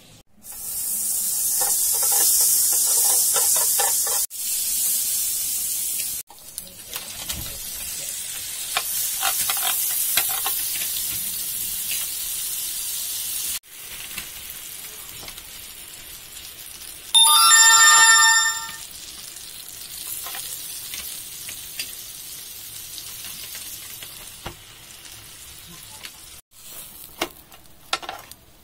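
Sandwich bread sizzling on a hot grill pan, loudest over the first few seconds and quieter after that. About two-thirds of the way through comes a brief, loud ringing tone.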